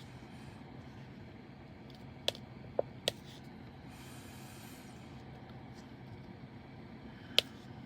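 A few sharp, light clicks over a low steady hum: a drill pen pressing small resin diamond drills onto a diamond painting canvas, three close together and one more near the end.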